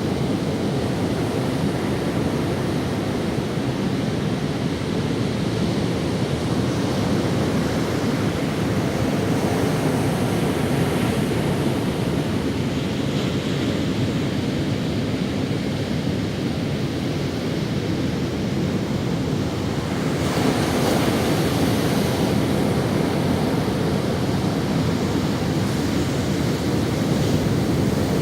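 Ocean waves washing onto a sandy beach in a steady surf wash, with a wave breaking a little louder about two-thirds of the way through. Wind on the microphone.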